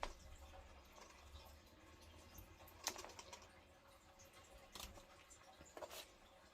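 Near silence broken by a few faint, scattered clicks and taps, small kitchen handling noises.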